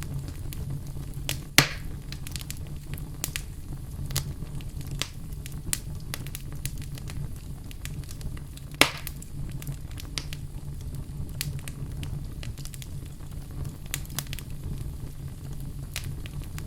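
Wood fire crackling, with a steady low rumble of flames and frequent sharp pops; two louder pops stand out, one near the start and one about halfway through.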